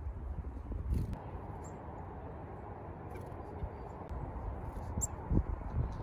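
A few short, faint, high chirps from small birds, likely black-capped chickadees, over a steady low rumble like wind on the microphone, with a couple of soft low thumps near the end.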